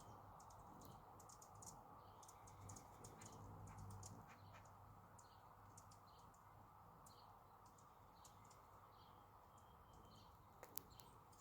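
Very faint outdoor ambience: scattered short, high-pitched small-bird chirps over a low steady hum.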